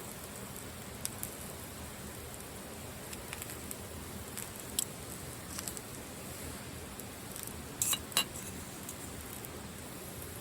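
Steady hiss of rain, with a scattering of light, sharp clicks and clinks; the loudest are a close pair about eight seconds in.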